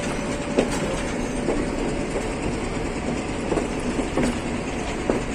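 Passenger train running along the track: a steady rumble with irregular clicks and knocks of the wheels over the rails.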